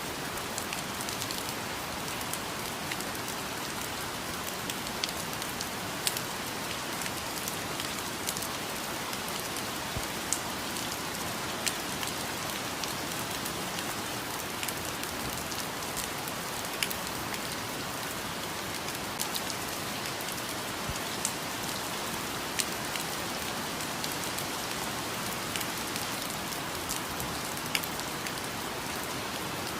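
Steady rain falling on foliage, with a constant hiss and scattered louder individual drop hits.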